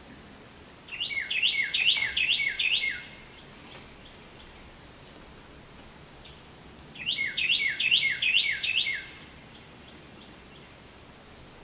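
A songbird singing two loud phrases about six seconds apart, each a quick run of about six repeated two-part notes, with a steady outdoor background between them.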